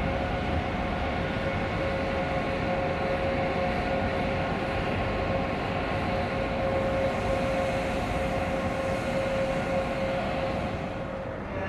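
Electric train running, a steady whine over low rumbling noise.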